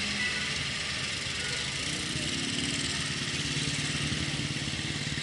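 Motorcycle engine running steadily while riding, under a steady rush of wind and road noise; a second engine note joins about two seconds in.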